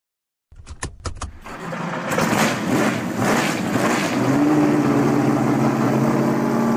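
A few sharp clicks, then a car engine starting: a couple of surges as it catches, settling into a steady, even running note.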